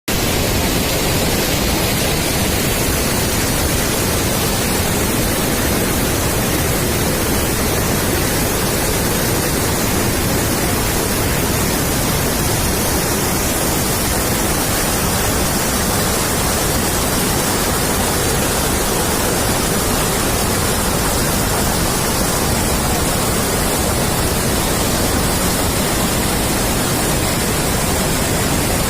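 Loud, steady rush of fast-flowing water, a flood torrent or waterfall, unchanging throughout.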